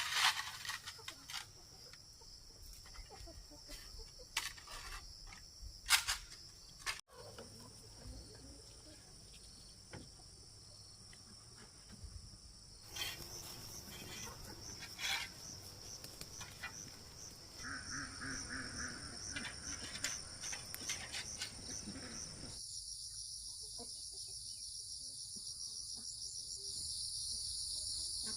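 A steady high-pitched drone of an insect chorus. Scattered sharp clicks and knocks sound in the first half.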